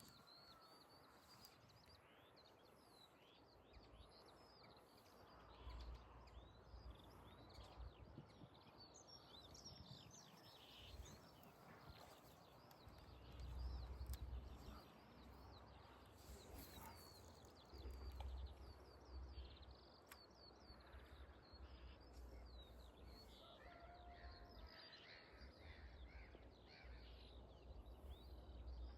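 Faint birdsong: many small birds chirping and calling, over uneven low rumbles that swell several times, loudest about halfway through.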